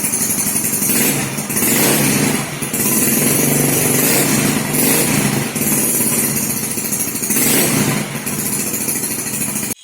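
Yamaha Mio Sporty scooter's single-cylinder four-stroke engine running through a hollowed-out muffler. The throttle is blipped so the revs rise and fall about four times.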